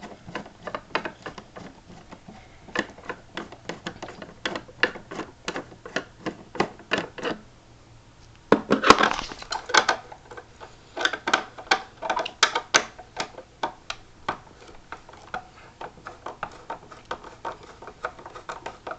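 Irregular clicking and light clatter from screws being worked out of a cordless vacuum's plastic housing while the plastic parts are handled, with a denser rattling clatter about nine seconds in.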